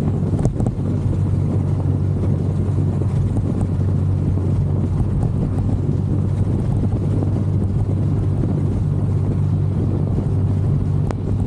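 Genuine Buddy 170i scooter engine running at a steady pace during a ride, a constant low hum, with wind rushing over the microphone.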